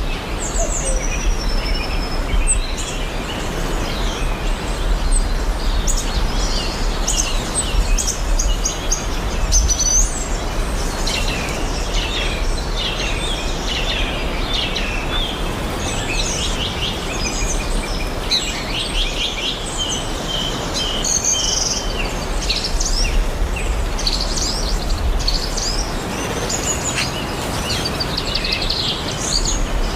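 Tropical forest ambience: many birds calling at once, with chirps, trills and rapid call series overlapping throughout, over a steady background hiss.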